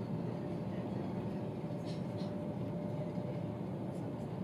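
Steady low rumble of a vehicle in motion, heard from inside, with a faint steady hum and a couple of faint ticks about two seconds in.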